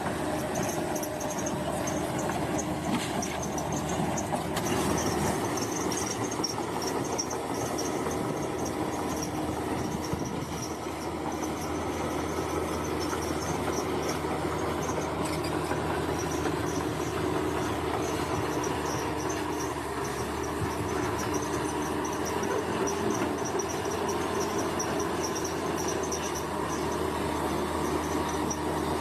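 Bulldozer's diesel engine running steadily, with insects chirping in a pulsing high chorus above it.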